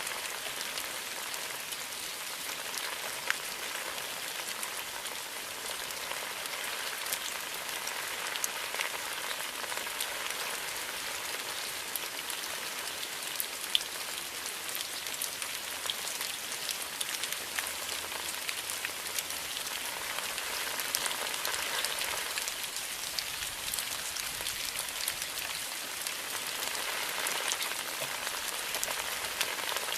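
Steady rain falling, an even hiss sprinkled with many small, sharp drop hits.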